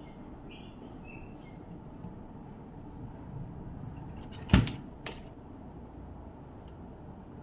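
A sharp knock about halfway through, followed by a lighter click half a second later. Birds chirp faintly in the background at the start.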